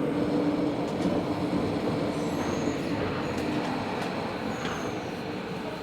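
Running noise inside a Tobu 70000 series subway car: wheel-on-rail rumble with a low motor hum, both fading steadily as the train slows. Brief faint wheel squeals come and go.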